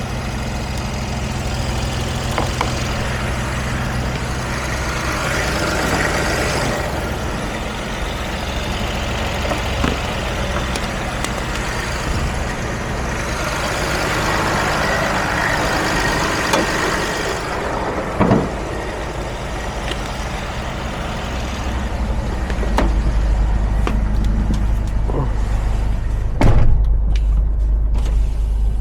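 Mercedes Sprinter's 3.0 L V6 diesel engine running, growing louder and brighter twice for a few seconds as if revved, then taking on a deeper, heavier note near the end. A few sharp clicks or knocks stand out over it.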